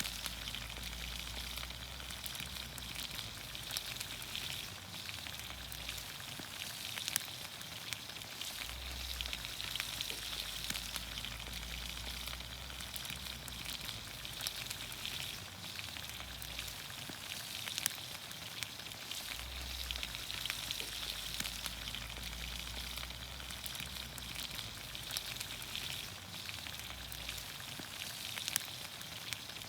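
Vegetables sizzling in olive oil in a pan over a campfire: a steady frying hiss with scattered sharp pops and crackles, a few of them louder.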